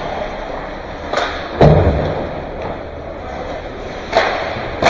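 Ice hockey play in a rink: a loud, heavy thud about a second and a half in and a few sharp clacks of stick and puck, over steady rink noise.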